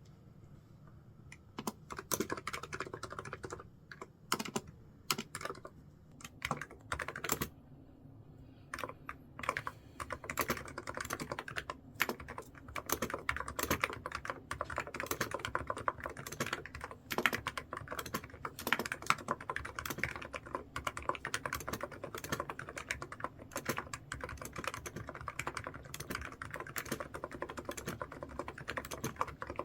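Typing on a computer keyboard. At first the keystrokes come in scattered short runs with pauses between them. From about a third of the way in they become a fast, continuous run of keystrokes.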